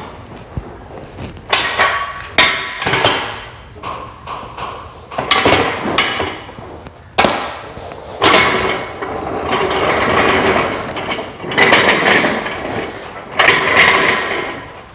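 Hand tools working on metal Humvee parts: a series of sharp knocks and clanks, with longer rough noisy stretches around the middle and near the end.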